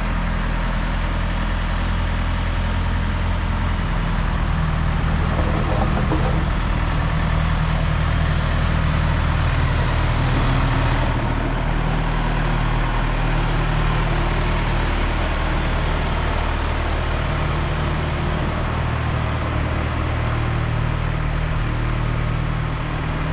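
1974 John Deere 2030 tractor engine running steadily, its pitch shifting slightly now and then.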